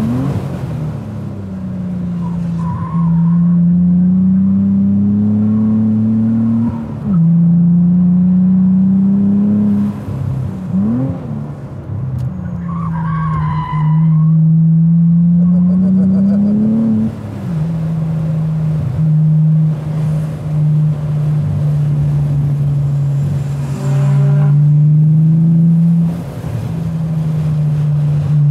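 Cadillac ATS-V's twin-turbo V6 under hard track driving, its note climbing as it accelerates and dropping sharply at each gear change. About halfway through, the tyres squeal briefly in a tight corner.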